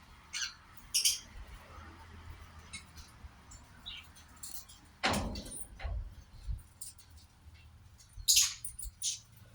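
Sun conures giving short, sharp high-pitched calls several times. There is a knock about five seconds in.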